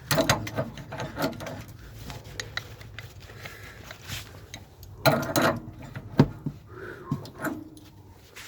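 Hand tools clanking and scraping on metal water-heater pipe fittings: irregular knocks and rubs, with a burst of louder clanks about five seconds in and one sharp hit just after.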